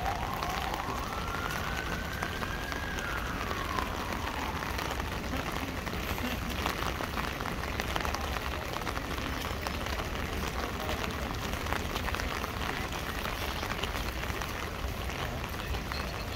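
Steady rain pattering on an umbrella, with many small drop ticks through the hiss. A siren rises and falls in the first few seconds.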